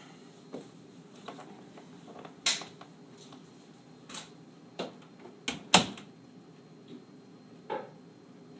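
A series of irregular sharp clicks and knocks, about eight of them, the loudest a quick double knock a little past halfway.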